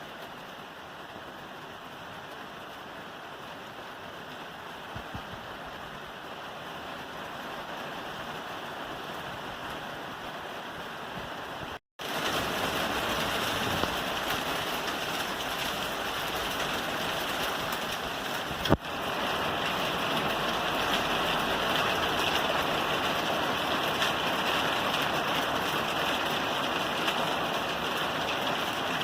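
Rain falling steadily on a roof, an even hiss. It cuts out for an instant about twelve seconds in and comes back louder, and there is a single sharp knock about nineteen seconds in.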